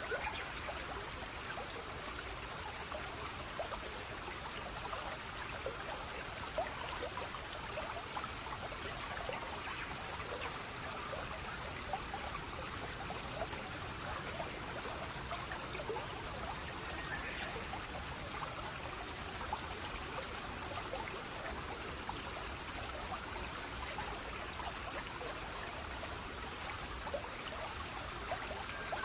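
Running water of a small forest stream, trickling and splashing steadily with many small droplet splashes over an even rush.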